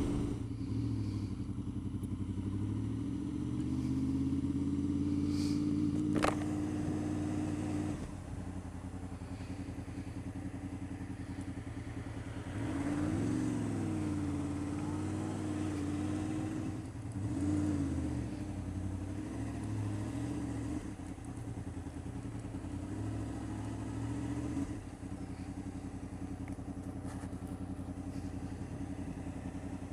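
Honda VFR800 VTEC's V4 engine running on the move, mostly at a steady pitch. Past halfway its pitch dips and climbs again twice, a few seconds apart.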